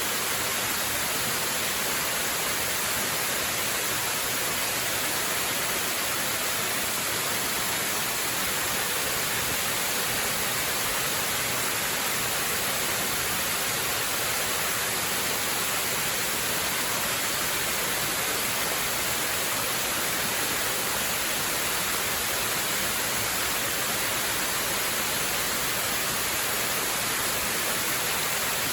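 Waterfall rushing: a steady, unbroken hiss of falling water, heaviest in the high range, with no change throughout.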